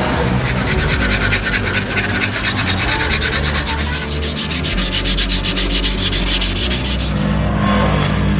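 Rapid, rhythmic sanding strokes, about seven a second, fading out about seven seconds in.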